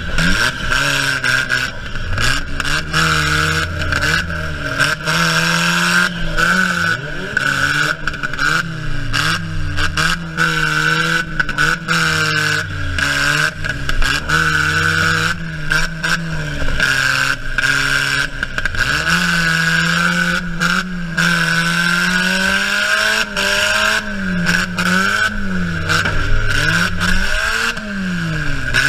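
Honda Civic four-cylinder engine revving up and down over and over as the car is driven hard, heard from inside the stripped-out cabin, with frequent metal clatter, scraping and knocks from the battered body.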